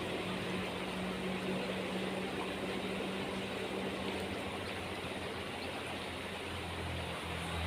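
Steady background hiss with a low, even hum, which grows slightly stronger near the end.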